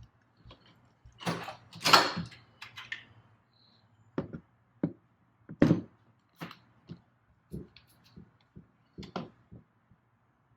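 Tools and parts being handled: some rustling and a couple of louder clunks in the first few seconds, then about ten light knocks and clicks spaced out over several seconds.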